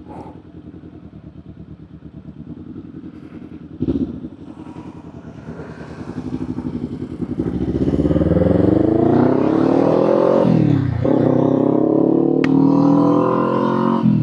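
Kawasaki Z400's parallel-twin engine ticking over quietly, then pulling away and revving up, its pitch rising, falling at a gear change about eleven seconds in and climbing again. A short thump about four seconds in.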